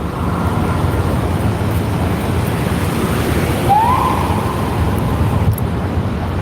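Steady street-traffic rumble with wind buffeting the microphone. About halfway through, a faint tone rises and then holds.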